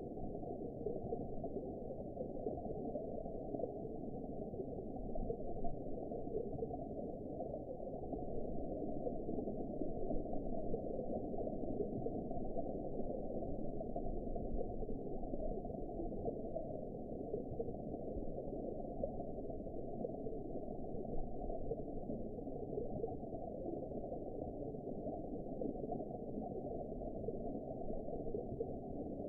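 Steady underwater ambience: a dull, muffled, even rush of water sound with nothing above the low range and no distinct events.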